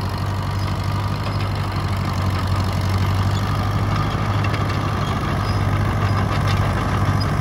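1948 International TD-6 crawler tractor's diesel engine running steadily while the tractor is driven and turned, worked to free up a sticking right steering clutch.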